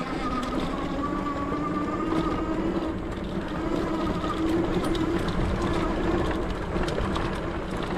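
Electric bike motor whining while riding, a steady high tone with a lower hum that waver slightly, over a low rumble of wind on the microphone.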